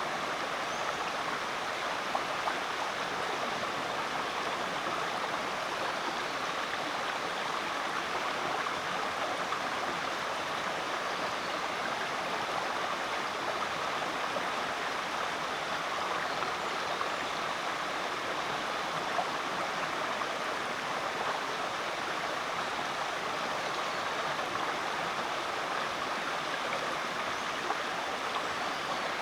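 Rainforest creek flowing over rocks, a steady rushing and babbling of water.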